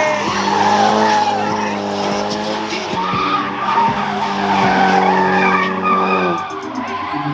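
A car's engine held at high, steady revs while its tires skid and squeal in a slide. The revs drop off near the end.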